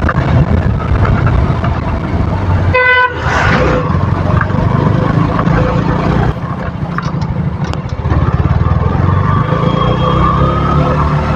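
Motorcycle engine running under way in traffic, with a short vehicle horn toot about three seconds in. The engine eases off about six seconds in and pulls again near eight seconds.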